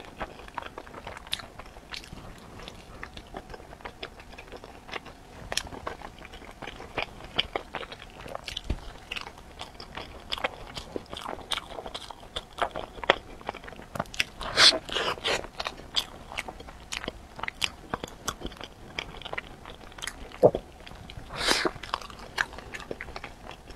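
Close-miked chewing and biting of a soft filled bread roll, with many small wet mouth clicks and crackles. Louder bursts of chewing and crunching come midway and again near the end.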